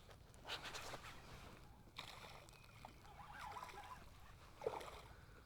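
Quiet sounds of a kayak on the water: faint water movement with a few brief knocks and rustles, one near the start, one about two seconds in and one near the end.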